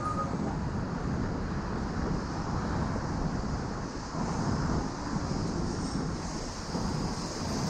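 Wind rushing over the microphone while cycling, with the steady noise of street traffic underneath.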